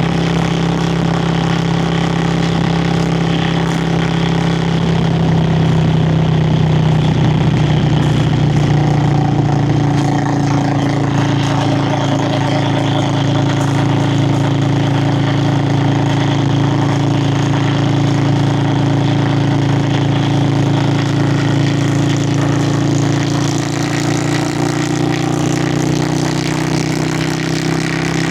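Yamaha Virago XV535 V-twin engine and exhaust running steadily while riding, a little louder about six seconds in and easing slightly near the end, with wind noise over it.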